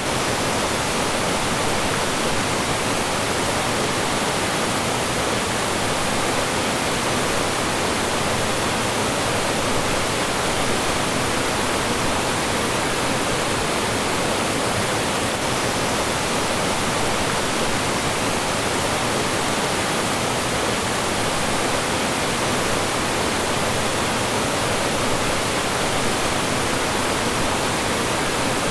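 Mountain stream rushing and splashing over rocks in small falls: a steady, full, unbroken rush of water.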